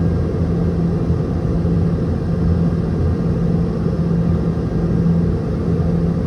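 Boeing 717-200's rear-mounted Rolls-Royce BR715 turbofan engines droning steadily, heard from inside the passenger cabin, with a low rumble and a steady hum.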